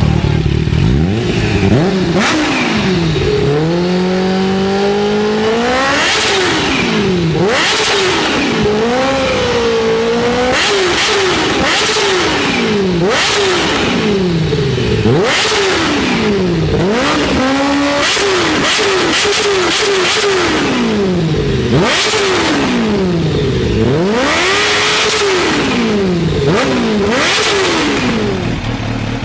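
Kawasaki H2's supercharged inline-four engine revved over and over: a slower rising rev early on, then about a dozen throttle blips in a row, each climbing quickly and dropping back.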